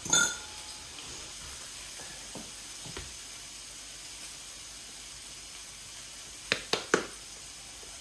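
Sticky pizza dough squeezed and worked by hand, giving three short wet squelching pops close together near the end, over a steady low sizzling hiss. A sharp knock comes right at the start.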